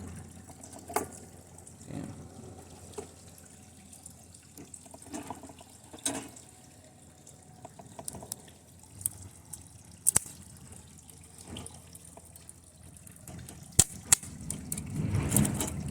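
Intermittent crackling and sharp pops of high-current electrical arcing from lead-acid battery leads burning a TV circuit board, over a faint fizzing hiss. The loudest pops come about ten seconds in and just before fourteen seconds.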